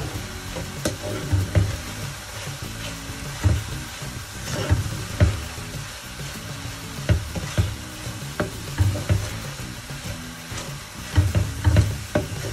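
Bulgur with grated carrot and leek toasting in oil in a pot, sizzling steadily while a wooden spoon stirs and scrapes through it, with irregular knocks of the spoon against the pot.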